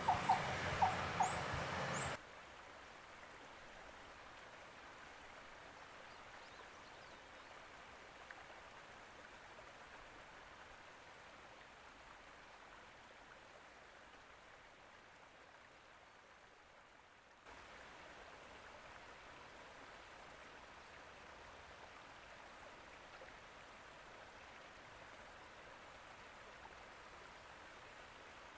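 Faint, steady rush of flowing water, cut in abruptly about two seconds in and stepping up again after a sudden cut partway through. It is preceded by loud chirping and a few sharp clicks at the start.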